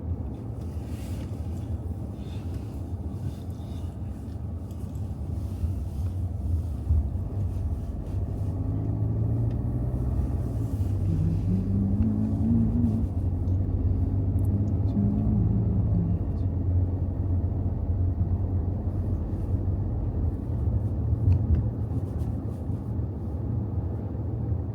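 Steady low rumble of a car driving, with wind noise. A faint pitched tone rises and falls briefly around the middle.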